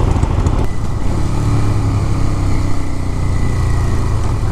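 Motorcycle engine running with a low, steady note. Wind rush on the microphone drops away about a second in, leaving mostly the engine.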